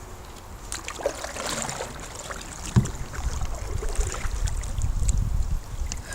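A canoe being paddled: paddle strokes and splashes in the water, with wind rumbling on the microphone. There is a single knock about three seconds in.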